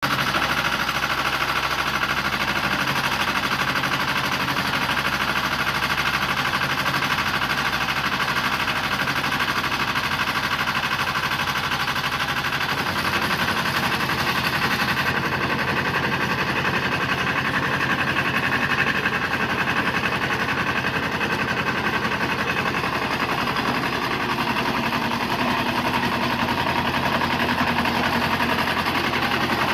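The two-cylinder diesel engine of a Struck Magnatrac 6000 crawler tractor running steadily, with its note shifting a little about halfway through.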